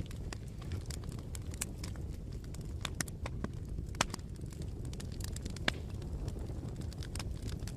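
Bonfire crackling: irregular sharp pops and snaps of burning wood over a steady low rumble of the flames, with two louder pops, one about four seconds in and one near six.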